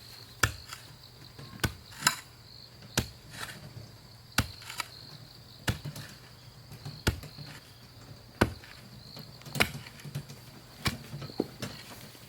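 About a dozen sharp knocks, roughly one every second, each struck hard and cut short, over a steady high insect trill.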